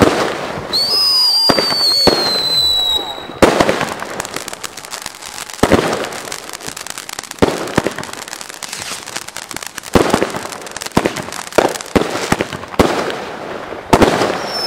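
A consumer fireworks cake firing aerial shots: about a dozen sharp bangs, irregularly spaced, each followed by crackle. About a second in, a high whistle slowly falls in pitch for two or three seconds.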